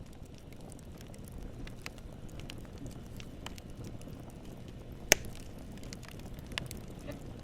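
Wood fire burning with a low steady rumble and scattered crackles of wood popping, with one loud sharp pop about five seconds in and a smaller one a little later.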